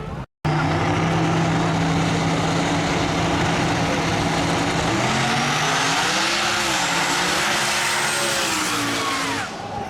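Drag racing car engine held at steady high revs, then the revs wavering up and down before dropping away near the end. It starts abruptly after a brief dropout.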